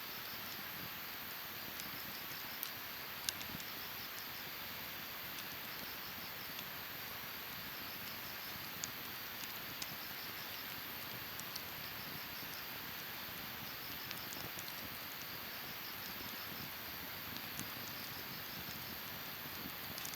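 Wood fire burning in a Snow Peak fire pit: a steady hiss with sharp crackles and pops scattered through, the loudest about three seconds in.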